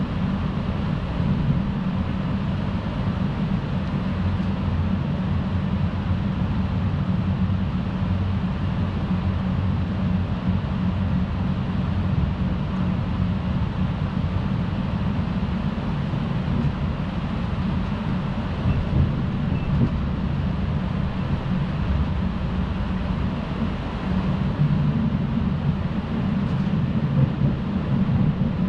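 Electric passenger train running at speed, heard from inside the carriage: a steady low rumble of wheels on rail and running gear, swelling a little louder a few times near the end.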